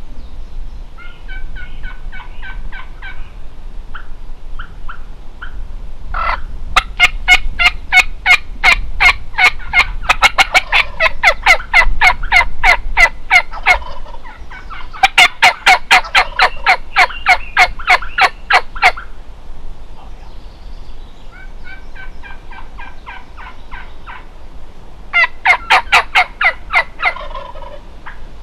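Wild turkey gobblers gobbling hard: long, rapid rattling gobbles, some loud and close, with fainter gobbles between them, as from two birds answering each other.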